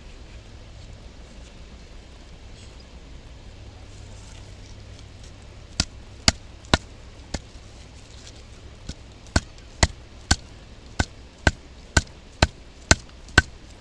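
Batoning firewood: a piece of wood is struck repeatedly on the spine of a Mora knife driven into a log to split it, giving a run of sharp knocks about two a second. The knocks start about six seconds in, with a short pause near nine seconds.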